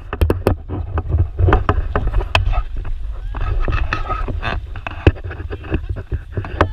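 Wind buffeting an action camera's microphone at riding speed: a heavy, unsteady rumble with frequent sharp clicks and knocks.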